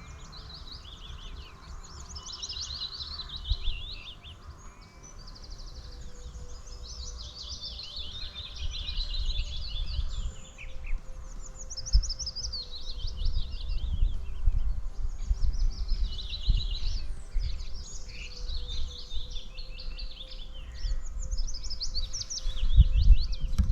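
Several songbirds singing at once, rapid repeated trills and warbling phrases, some sweeping down in pitch, with a low rumble underneath.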